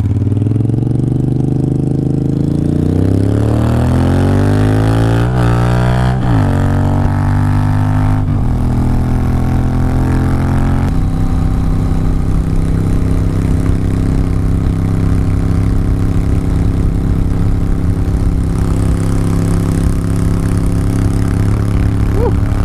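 Triumph Speedmaster 865cc parallel-twin motorcycle engine accelerating: its pitch climbs and drops back at several gear changes, then settles into a steady cruise for the rest of the ride.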